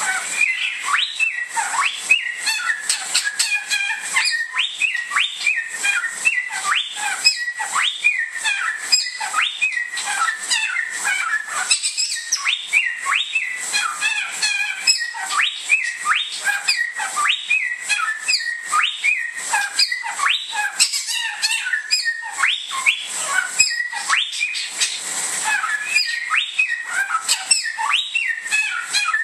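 Bare-throated whistler singing without pause: a quick series of short, loud, rising whistled notes, about one to two a second.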